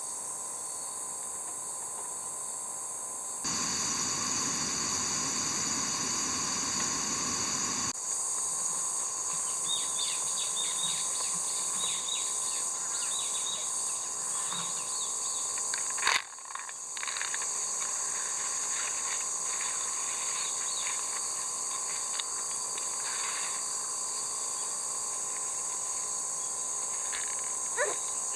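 Steady chorus of summer insects, a layered high buzzing and trilling, with faint rustles and ticks now and then and one sharp click about halfway through.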